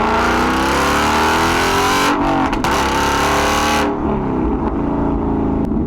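Ford Mustang GT's 5.0 Coyote V8 through a Corsa Xtreme cat-back exhaust with an X-pipe, accelerating hard in second gear with a raspy tone that climbs in pitch. There is a brief break about two seconds in. The driver lifts off near four seconds and the exhaust settles to a lower rumble.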